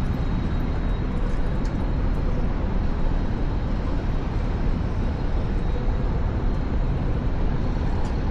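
Steady noise of wind on the microphone and road noise during a Onewheel ride, heaviest in the low end. Faint steady tones sit over it.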